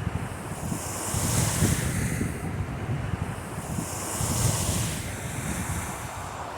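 Small lake waves breaking and washing onto a sand beach, swelling about every three seconds, with wind buffeting the microphone.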